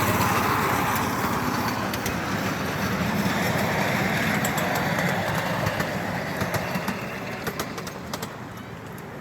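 Miniature park railway train running, its steady rumble and hiss slowly fading, with a run of sharp clicks in the second half.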